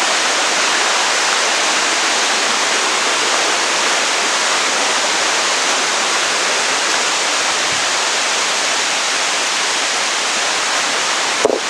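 Waterfall water pouring down in a steady, unbroken rush.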